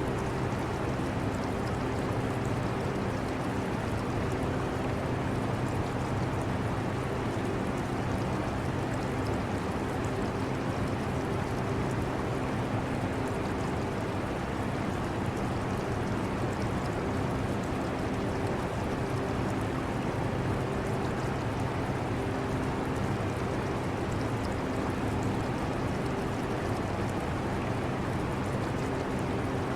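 Air conditioner running with a steady, even hum, mixed with the trickling of aquarium water.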